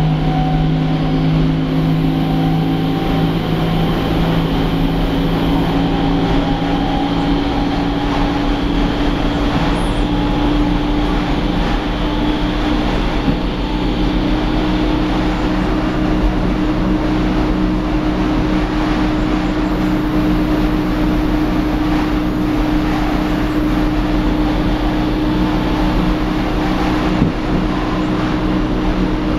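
Berlin S-Bahn class 480 electric train heard from inside the carriage while under way: a loud, strange drone with whining tones over the running noise. The whine climbs slowly over the first half, then holds steady.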